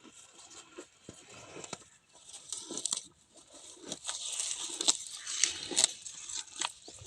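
Cow tearing off and chewing grass: repeated crisp ripping and crunching, growing busier and louder after the first couple of seconds.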